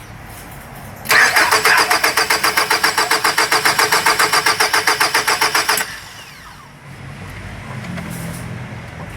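Starter cranking a 2003 Nissan X-Trail's QR20DE engine with a fast, even chug of about ten beats a second for nearly five seconds. It stops suddenly without the engine catching: a crank-no-start, which comes with fault code P0335 (crankshaft position sensor).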